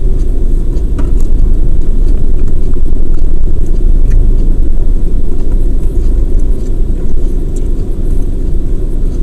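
Steady low rumble of a car heard from inside the cabin, with a few faint clicks over it.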